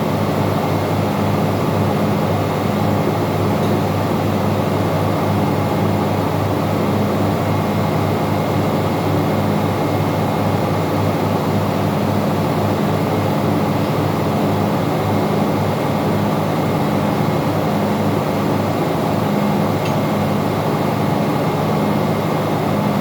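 Steady, loud engine-room machinery drone with a low hum that throbs slightly and a faint high whine, unchanging throughout.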